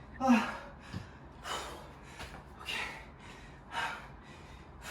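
A man breathing hard, with heavy gasping breaths about once a second, out of breath after a set of burpees.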